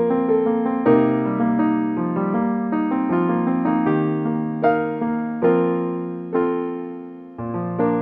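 Solo piano background music: a gentle melody of single notes that slows, ending on a chord a little before the end that rings and fades away.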